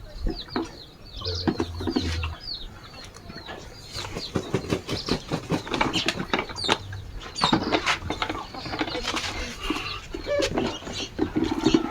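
A chicken flapping its wings in a flurry of sharp scuffles and clucking, with short high chirps.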